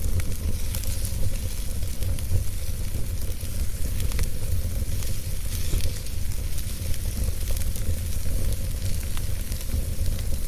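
Wood fire in a fireplace burning with a steady hiss and many small scattered crackles and pops over a constant low rumble.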